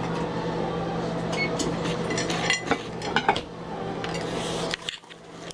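Kitchen clatter: dishes and utensils clinking and knocking several times, over a steady appliance hum that stops just before the end.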